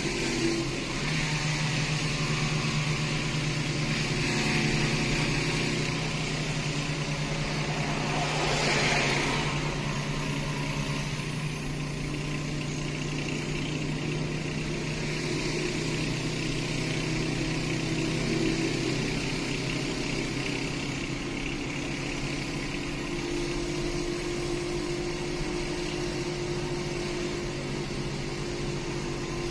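Small motorcycle engine of a kulong-kulong tricycle running steadily while it tows a car, heard from inside the towed car's cabin with road and tyre noise. A brief rush of noise swells about nine seconds in, and the engine's pitch shifts a little after about twenty seconds.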